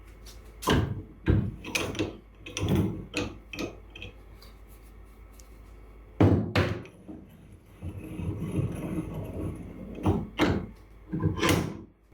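Bench vise being handled and worked: a string of sharp metal knocks and clunks in irregular groups, with a rougher scraping stretch a little after the middle.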